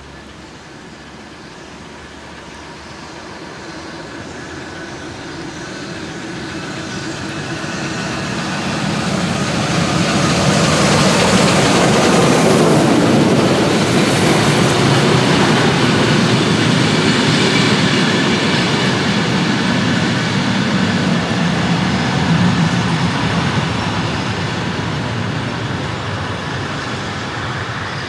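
A train passing by: its rumble grows louder as it approaches, is loudest about twelve seconds in, then slowly fades as it moves away, with faint squealing from the wheels.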